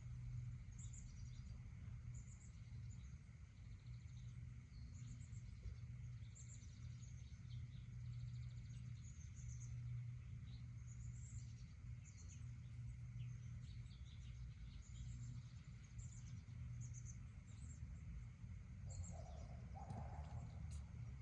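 Small birds chirping, short high calls repeating over and over, above a steady low hum.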